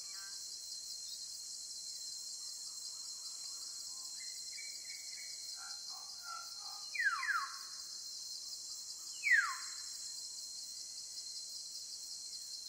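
Birds calling over a steady high hiss: a few soft chirps, then two quick downward-sliding whistles about seven seconds in and a third about two seconds later.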